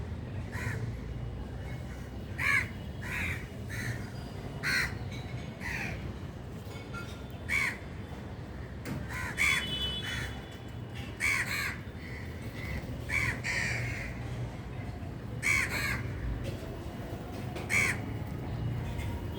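Crows cawing: short, harsh caws repeated every second or two at irregular intervals, sometimes in quick pairs, over a steady low background rumble.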